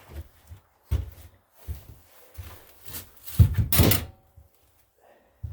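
Plastic engine cover being handled and pulled clear: scattered knocks and thunks, with a louder scraping rattle a little past halfway.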